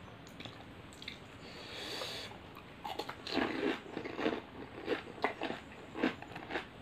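Pani puri (golgappa) being eaten: the crisp hollow puri shell, filled with spiced water, is crunched and chewed in a run of irregular crunches from about three seconds in.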